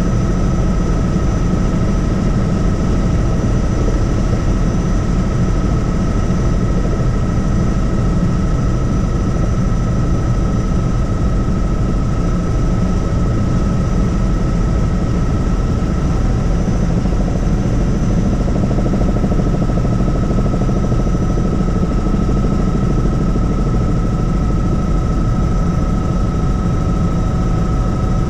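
Helicopter in flight: steady engine and rotor noise with a constant high whine running through it.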